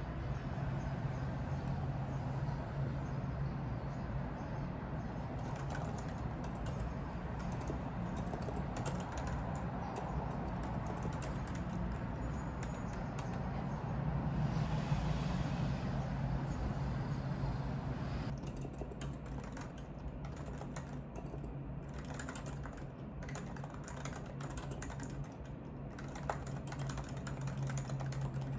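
Typing on a computer keyboard: a run of quick, irregular key clicks, densest in the second half, over a steady low hum.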